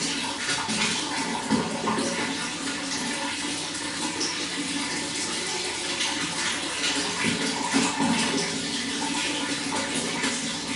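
Running water flowing steadily, a continuous rushing splash with small irregular swells.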